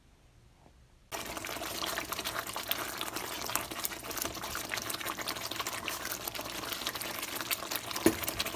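Spiced onion and yogurt masala sizzling and crackling in hot oil in a pan, starting about a second in after a brief silence, as it is fried down until the ghee separates. A single spoon knock comes near the end.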